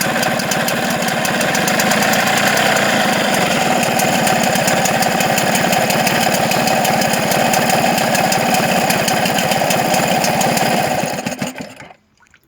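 An engine running steadily on a post-repair test, with an even pulsing beat, then shut off and dying away about a second before the end.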